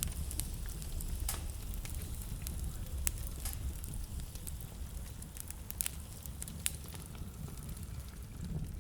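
Wood fire burning in a fireplace, crackling with scattered sharp pops over a low steady rumble.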